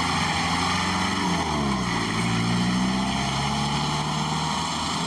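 Vehicle engine running steadily, its pitch dipping and then rising again about two seconds in as the engine slows and picks up speed.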